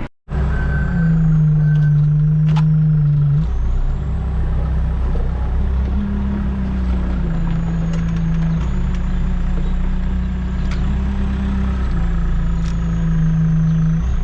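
Tractor engine running steadily, heard from inside the cab, with its pitch stepping up and down slightly a few times as the load changes.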